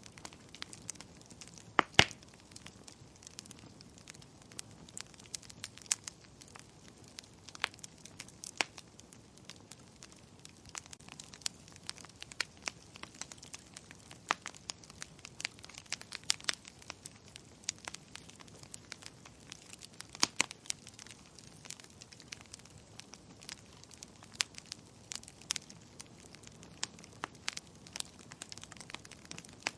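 Wood fire in a fireplace crackling, with irregular sharp pops and snaps over a faint steady hiss; the loudest pops come about two seconds in and again about two-thirds of the way through.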